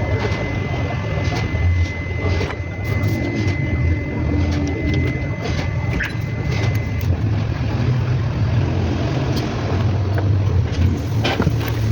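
An engine running steadily, a low rumble with scattered light clicks over it.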